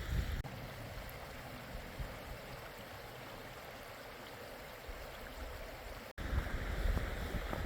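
A mountain creek running over rocks, a steady rushing of water that cuts off suddenly about six seconds in. Wind buffeting the microphone follows.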